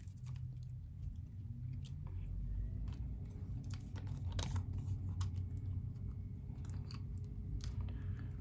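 Scattered small clicks and rustles of craft materials being handled on a worktable, over a low steady hum.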